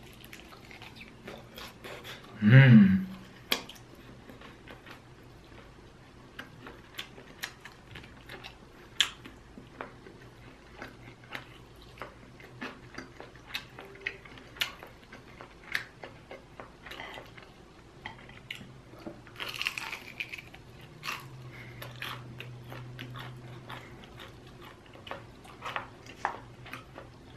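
Close-miked chewing of chicken wings: a bite, then wet mouth clicks and smacks scattered throughout. A short, loud vocal sound comes about two and a half seconds in.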